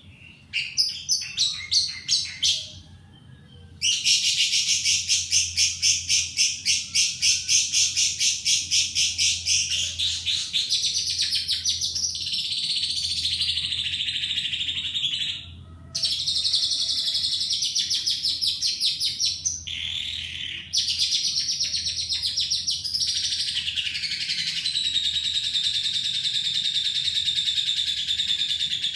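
Lovebird singing long bouts of rapid, high-pitched pulsing chatter, about four pulses a second, broken by three short pauses.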